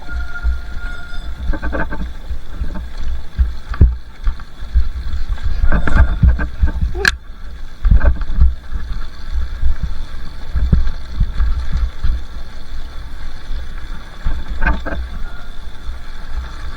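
Two-stroke dirt bike engine running on a trail ride, under heavy low rumble and buffeting on the microphone. Several sharp knocks break through, the loudest about seven seconds in.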